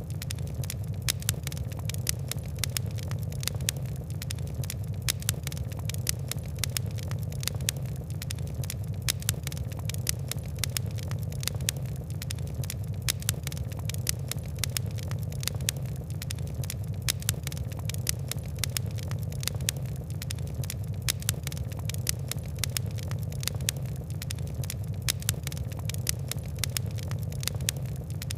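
Fire crackling: many quick, sharp, irregular pops and ticks over a steady low rumble.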